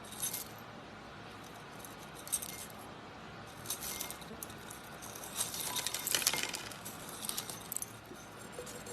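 Scattered small, crisp clicks and crackles over a steady faint hiss, thickest about four seconds in and again around six seconds.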